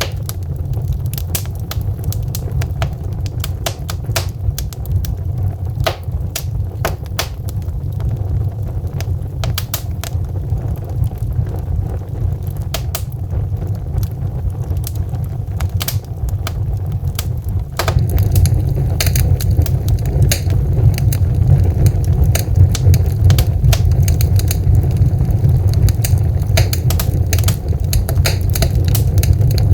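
Wood fire burning in a fireplace: a steady low rumble of flames with irregular sharp crackles and pops from the logs. The fire grows louder and busier about two-thirds of the way through.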